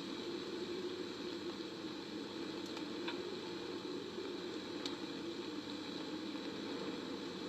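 Steady background white-noise ambience with a few faint clicks about three and five seconds in.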